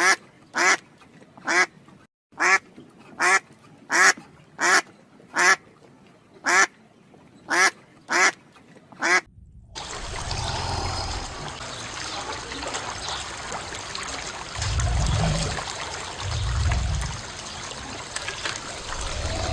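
Duck quacking about a dozen times, single loud quacks spaced roughly a second apart. After about nine seconds the quacks stop and a steady rushing noise takes over, with low swells near the end.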